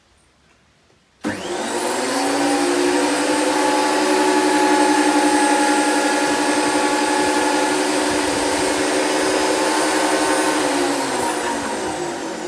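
Makita thickness planer switched on about a second in, its motor and cutterhead starting abruptly and running at a steady high whine, then beginning to spin down, falling in pitch, near the end as it is switched off.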